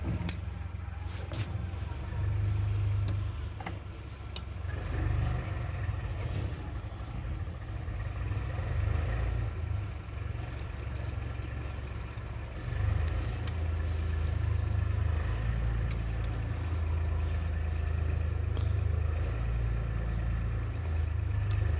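Steady low rumble of a motor vehicle's engine running nearby, swelling and easing, with a few faint clicks of hand tools.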